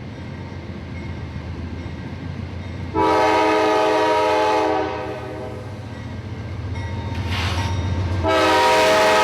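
Diesel freight locomotive's multi-chime air horn over the low rumble of its engine: one long blast about three seconds in and another long blast starting about eight seconds in. The horn is sounding for crossings as the train runs down the street.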